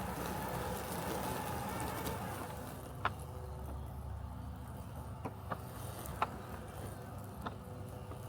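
Robotic lawn mower humming steadily, a little fuller in the first two or three seconds. Five short sharp clicks come in the second half.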